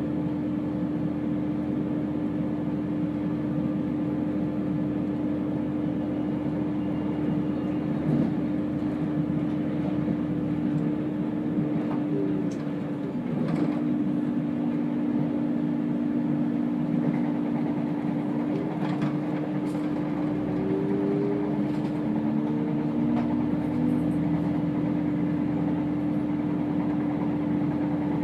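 Chiltern Railways diesel train running: a steady drone with one strong held tone, and several short tones gliding up and down from about halfway through, with a few faint clicks.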